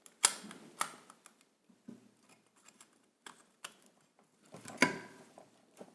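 Parts of an old washing machine motor being handled and fitted back together: a run of sharp clicks and light knocks with faint scraping between, the loudest near the start and about five seconds in.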